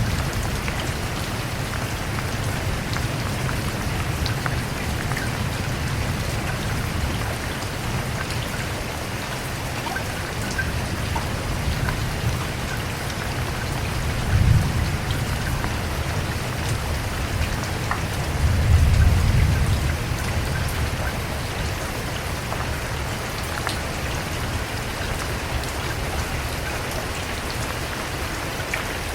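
Steady rain falling, with scattered drops ticking. A low rumble swells about halfway through and again a few seconds later.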